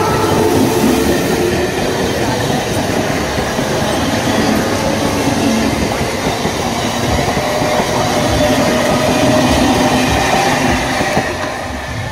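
Eastern Railway EMU local train running past close by, its carriages and wheels clattering on the track with a steady whine underneath. The sound eases slightly near the end.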